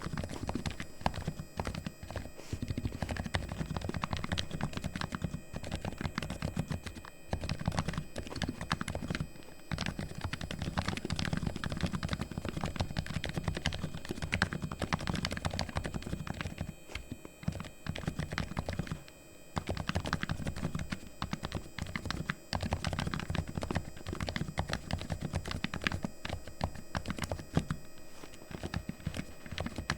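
Razer Huntsman V2 Linear keyboard with its linear optical switches fully lubed, typed on continuously: a rapid run of keystroke clacks with a few brief pauses.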